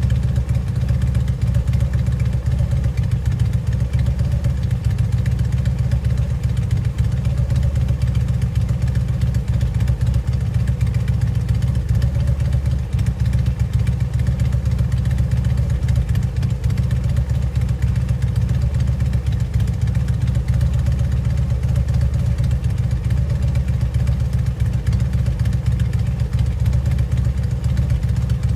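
2009 Harley-Davidson Electra Glide Classic's Twin Cam 96 V-twin idling steadily through Vance & Hines Eliminator 400 slip-on mufflers, a deep, even exhaust note.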